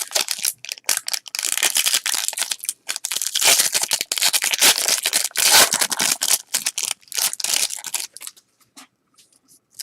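A trading-card pack wrapper being torn open and crinkled in the hands, a fast irregular crackling that thins to a few light ticks near the end as the cards are handled.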